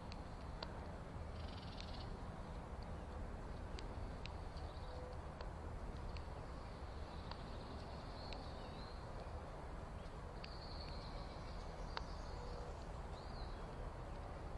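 Faint, scattered high-pitched bird calls and chirps over a steady low outdoor rumble, with a few sharp ticks.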